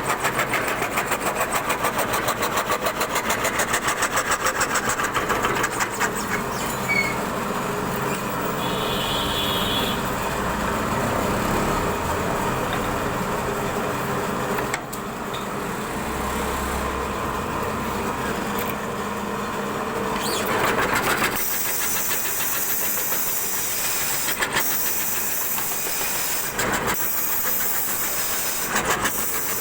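CNC wood carving router running, its spindle and cutter working wood, with a rapid regular pulsing for the first few seconds. About two-thirds through, the sound turns to a brighter, steady hiss, broken by a few sharp clicks.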